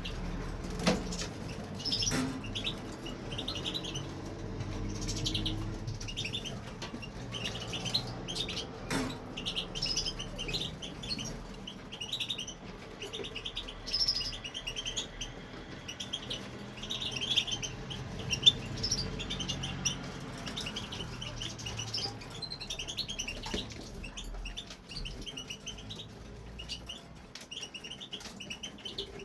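European goldfinch singing on and on, a fast, unbroken run of twittering notes, with a few sharp clicks near the start.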